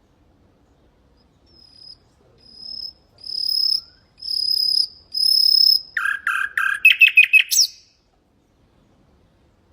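Common nightingale singing one phrase: five drawn-out pure whistles, each louder than the last, then a quick run of lower, harsher notes ending in a rapid trill.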